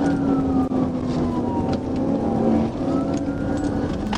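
Police car siren wailing in a slow rise and fall over the patrol car's engine and road noise during a pursuit.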